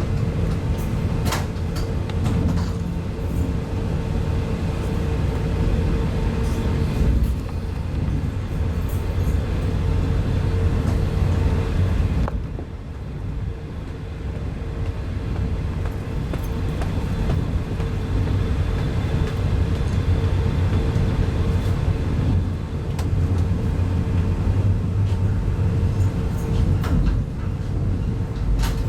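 Cabin noise inside a China Railway 25T passenger coach running at speed: a steady low rumble of wheels on rail under a constant hum, with a few sharp clicks. The rumble dips briefly about twelve seconds in.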